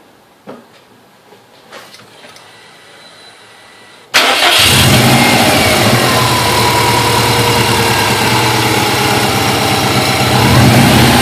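A few faint clicks, then about four seconds in a Subaru WRX flat-four engine starts suddenly and runs at idle, with a thin wavering whine over the engine sound. This is the strange noise after a timing belt and water pump job, caused by a worn-out idler pulley.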